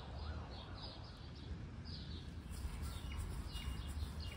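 Birds chirping: short, repeated falling calls, several a second, over a steady low rumble.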